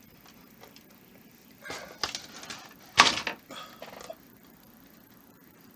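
Handling clatter as the large model helicopter is turned over: a few knocks and rattles, then a sharp knock about three seconds in as something falls over.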